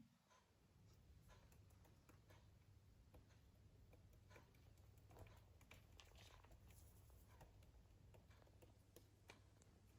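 Near silence: faint room tone with a low hum and scattered faint ticks.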